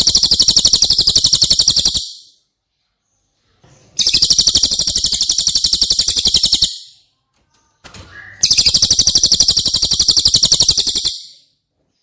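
A cililin bird sings its high, very rapid trill in three bursts of about two and a half seconds each, with silent gaps between them.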